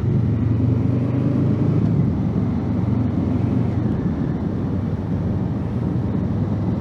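Honda Africa Twin's 1000cc parallel-twin engine running steadily while being ridden.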